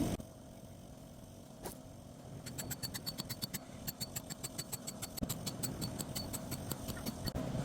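A rapid, regular series of sharp clicks, several a second, starting a little over two seconds in and stopping shortly before the end, over a low steady rumble.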